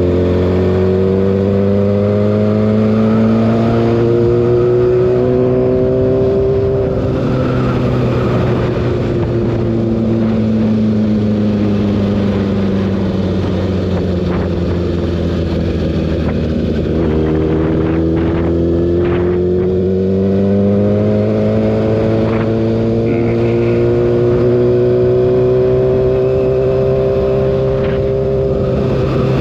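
Kawasaki ZX-6R's inline-four engine running at speed: its pitch climbs slowly for about seven seconds as the bike accelerates, falls for about ten as it rolls off, then climbs and holds again.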